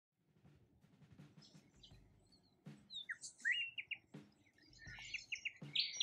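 Wild birds chirping and calling: short chirps and quick rising and falling whistled notes, sparse at first and busier from about halfway. Faint low knocks come roughly every second and a half underneath.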